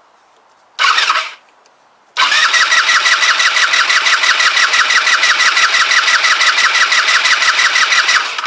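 Kymco Agility 125 scooter's electric starter cranking its single-cylinder four-stroke engine: a short half-second blip about a second in, then about six seconds of steady, evenly pulsing cranking that stops without the engine catching. The carburettor has not yet pulled fuel through, and the owner suspects there is no spark.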